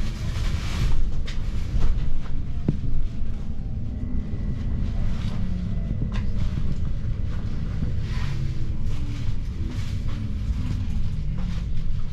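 Electric commuter train heard from inside the carriage, slowing into a station: a steady low rumble with faint whining tones that fall in pitch as it decelerates.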